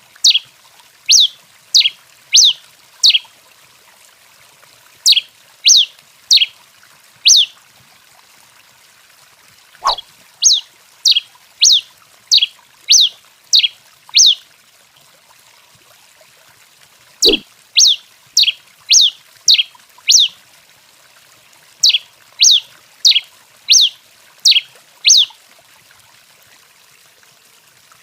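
Tico-tico-rei finch calling: runs of four to six sharp notes sweeping downward, about half a second apart, with pauses between the runs. A brief knock comes about ten seconds in and another about seventeen seconds in.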